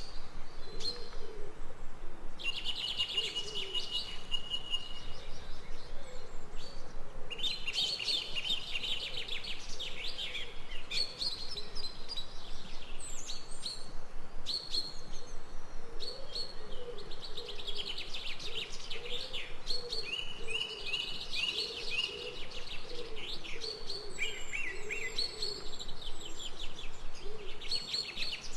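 Forest birdsong: several birds chirping and singing in quick trills and repeated phrases over a steady background hiss, with lower wavering calls underneath.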